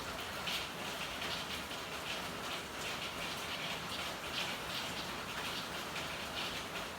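Steady rain falling and pattering on hard surfaces, with brief louder drop splashes standing out about once a second.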